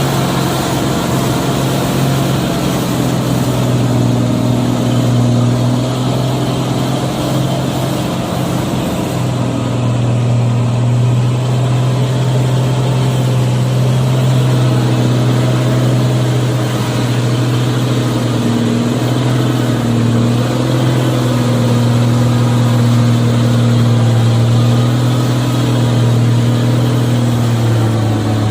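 Truck engine running steadily with a loud low drone that shifts slightly in pitch a few times.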